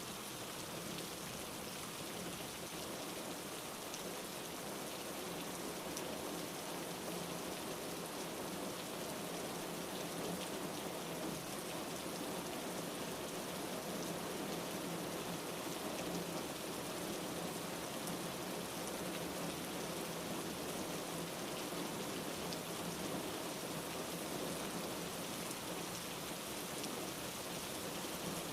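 Steady rain falling: an even hiss of rainfall with scattered faint drop ticks.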